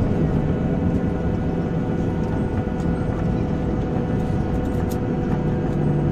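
Steady cabin noise of a Boeing 737-800 airliner: a continuous low rumble of its jet engines and airflow, with a few steady hum tones over it.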